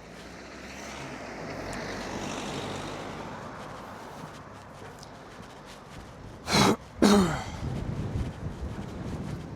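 A person coughing twice, two short loud coughs about half a second apart, a little past the middle. Before them a rush of noise swells and fades over a few seconds.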